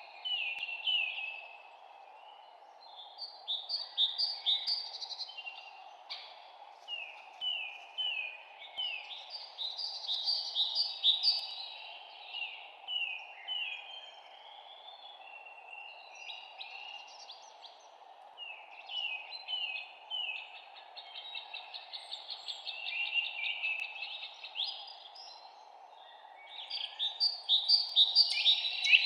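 Songbirds chirping and singing in short, rapid repeated phrases and trills, several overlapping, over a steady low background hiss.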